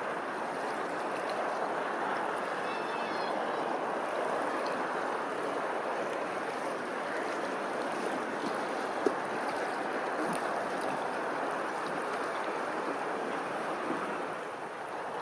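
Running water making a steady rush, with a few faint high chirps about three seconds in and a single sharp click about nine seconds in.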